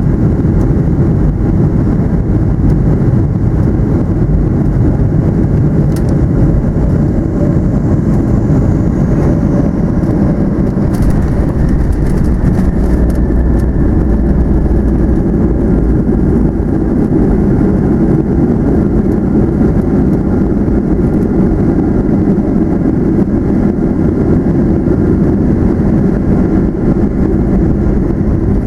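Steady, loud roar of a Boeing 737-700's CFM56 jet engines and rushing air, heard from inside the passenger cabin.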